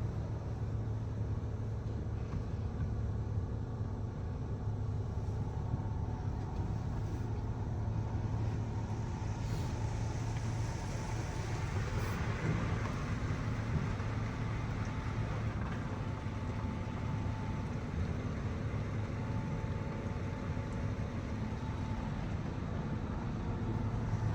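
A car engine running steadily with a low hum, with a spell of hiss in the middle.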